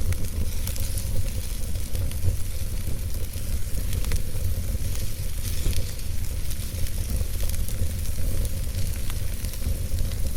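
Wood campfire burning, crackling with scattered sharp pops and a sizzling hiss over a steady low rumble.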